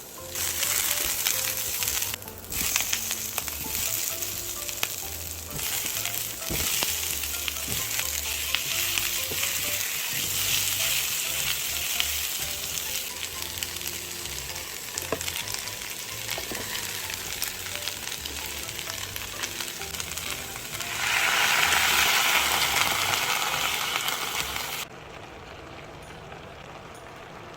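Food stir-frying in hot oil in a pan: a steady sizzle that swells louder for a few seconds near the end, then cuts off abruptly.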